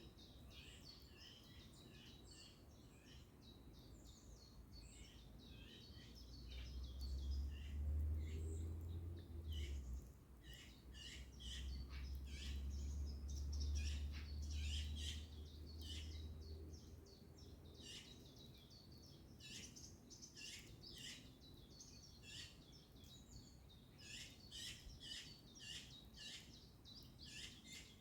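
Birds singing outdoors: many short overlapping chirps and calls throughout. A low rumble swells twice in the first two-thirds, louder than the birds while it lasts.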